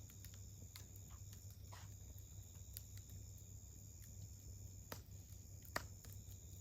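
Wood fire crackling with scattered sharp pops, the loudest just under six seconds in, over a steady high-pitched insect chirring.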